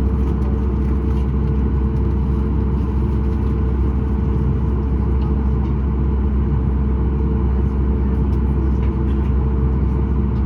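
Steady cabin drone inside a Boeing 737 MAX 8: the engines at low power and the air conditioning, with several steady low hum tones and no change in level. The aircraft is waiting or taxiing before its takeoff roll.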